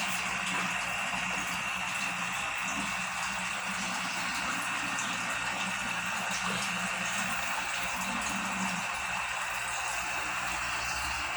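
Steady running, bubbling water in an aquarium, with a low hum underneath.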